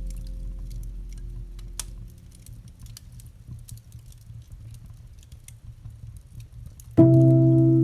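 Campfire crackling, with scattered small pops and snaps over a low rumble. A held low piano chord fades away in the first couple of seconds, and a new low chord comes in sharply about seven seconds in.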